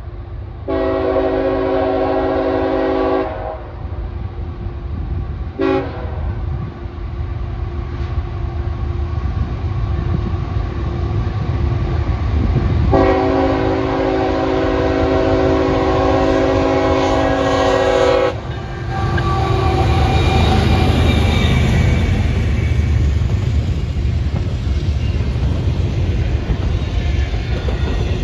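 Train horn sounding a long blast, a short blast, then a long blast of about five seconds, each a chord of several notes, over a steady low rumble. After the horn, the train's wheels rattle and clatter over the rails as it passes.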